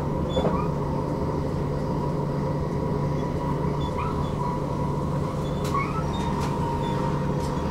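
Stockholm commuter train running at speed, heard from inside the carriage: a steady rumble with a constant whine, and a few short squeaks and faint clicks over it.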